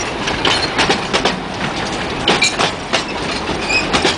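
Small narrow-gauge train's wagons and coaches rolling past, their wheels clicking irregularly over the rail joints.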